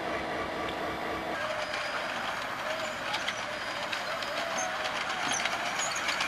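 Diesel locomotive engine running with a steady low rumble, cut off abruptly about a second in. Then a miniature ride-on train clicking along its small-gauge track, with scattered clicks and a level that slowly rises as it comes closer.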